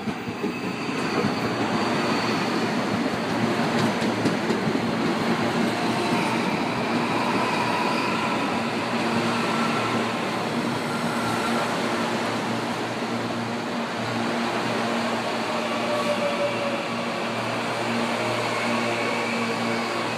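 CPTM electric multiple-unit commuter train passing close by: steady rolling of steel wheels on the rails under a steady motor hum, building over the first couple of seconds.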